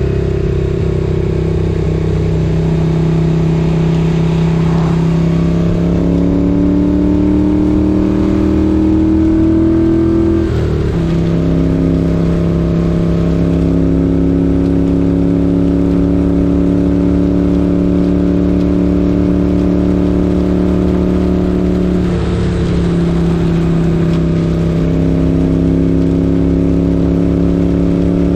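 1978 Moto Guzzi 850 Le Mans's air-cooled 850 cc V-twin running under way. Its pitch rises under acceleration, then breaks and drops with a gear shift about ten seconds in and shifts again a little past twenty seconds, holding a steady pitch in between.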